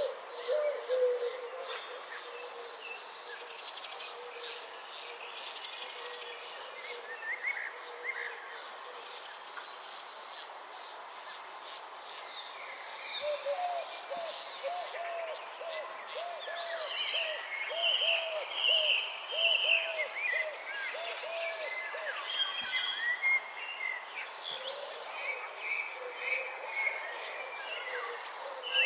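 Nature ambience. A steady, high insect drone stops about ten seconds in and comes back near the end. Scattered bird chirps run throughout, and in the middle a run of low calls repeats about twice a second.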